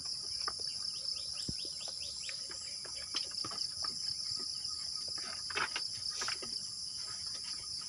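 Steady chorus of insects, crickets or the like, shrilling high, with a quick series of short rising chirps about a second in and scattered light clicks and rustles.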